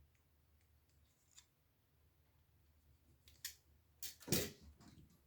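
A few faint clicks and snips from a hand blade cutting through a wire's insulation, then a louder cluster of sharp handling clicks about four seconds in.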